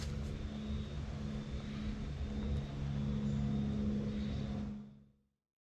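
A distant engine drones steadily with a low, even hum, then fades out about five seconds in.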